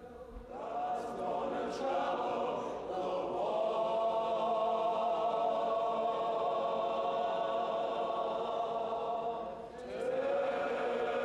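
A choir singing slowly in long held notes, with a short break near the end before the next phrase begins.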